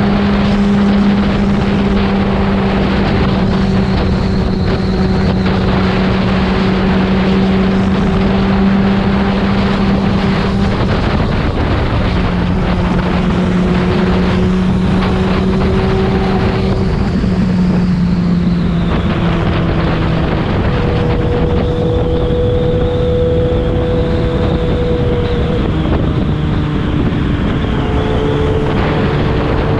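Yamaha FZ6's inline-four engine through a Leovince aftermarket exhaust, running at a steady cruise, with wind noise on the microphone. The engine note drops a little a few times along the way.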